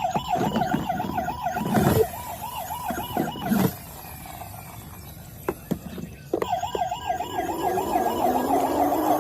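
Electronic toy vehicle siren, a fast warbling wail that stops for a few seconds and then starts again, with sharp knocks and clicks from the toy being handled.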